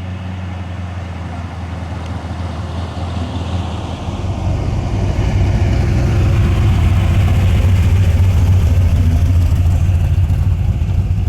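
Car engine with a low exhaust rumble, growing louder from about four seconds in as the car comes close.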